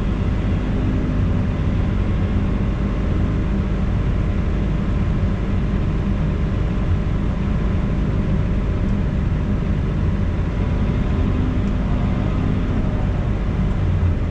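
Heavy-equipment engine running steadily at an even speed, with no change in pitch or load.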